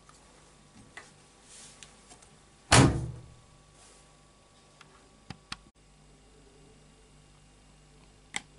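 The door of a Bosch WAB28220 front-loading washing machine is shut with one loud thud about three seconds in. A few faint clicks come before and after it.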